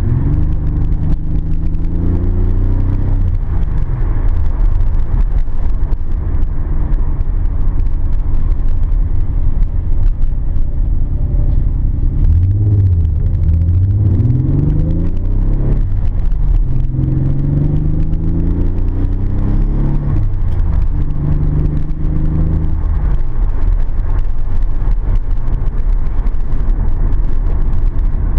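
Nissan 300ZX's twin-turbo VG30DETT V6 running under way, with a steady low rumble and engine pitch rising and falling several times as it pulls and eases off. The freshly built engine is being broken in gently on only a couple pounds of boost.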